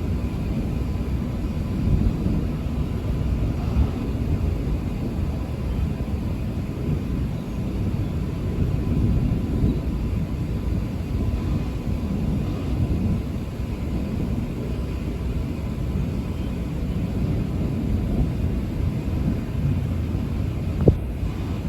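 Thunder from a severe thunderstorm, rumbling continuously and unevenly, with a short sharp thump near the end.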